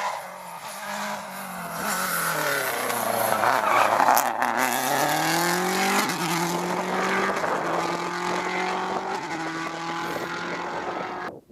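Rally car engine on a tarmac stage: the engine note drops as the car slows into a corner, then climbs hard as it accelerates away, loudest about four seconds in, with further stepped rises as it changes up through the gears. The sound cuts off abruptly just before the end.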